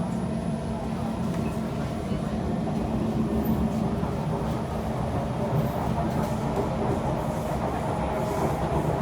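Interior of a Kawasaki C151 metro train running between stations: a steady rumble of wheels and running gear on the track, with faint steady motor tones over it.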